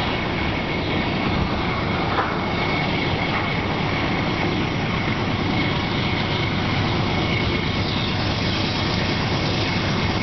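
Freight train's cars rolling past on the rails, a steady roar of wheels and track noise with a faint steady high squeal running through it.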